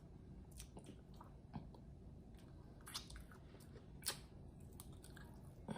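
Faint wet chewing of chicken wings, with a few short mouth clicks and smacks spaced about a second apart.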